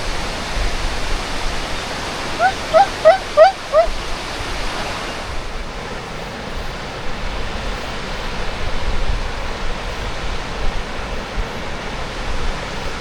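Waterfall rushing steadily. About two and a half seconds in, a quick run of five or six short high-pitched calls cuts through.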